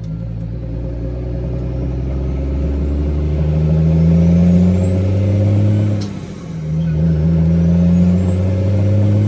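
Kenworth W900B dump truck's straight-piped Caterpillar C13 diesel pulling under acceleration, getting steadily louder, with a short break about six seconds in at a gear change before it pulls again.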